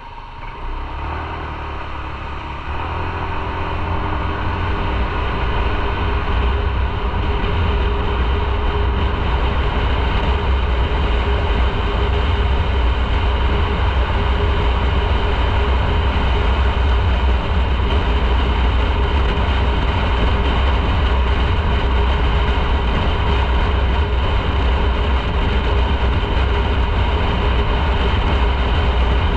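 Motorcycle engine running under way with heavy wind rumble, rising over the first few seconds as the bike pulls away and gathers speed, then holding steady at cruising speed.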